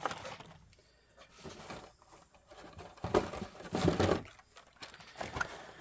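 Carded Hot Wheels die-cast cars in plastic blister packs being handled and shuffled, giving scattered crinkly plastic rustles and light clacks, loudest around three to four seconds in.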